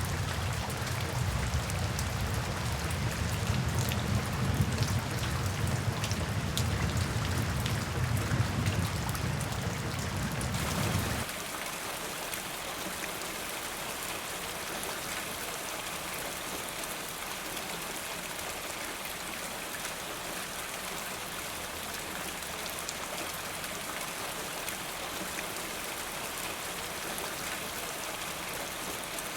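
Steady rain falling, with individual drops ticking over a heavy low rumble. About eleven seconds in the sound changes abruptly: the rumble drops away, leaving a smoother, even hiss of rain.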